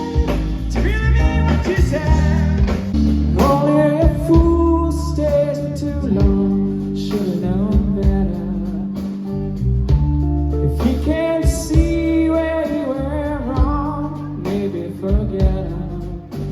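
Live blues-funk band playing loud: a bending, sliding lead line over bass and a steady drum beat.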